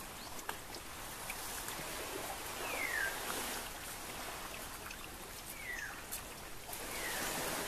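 A bird calls three times, each a short whistle falling in pitch, over a steady rushing background hiss, with a few faint light clicks.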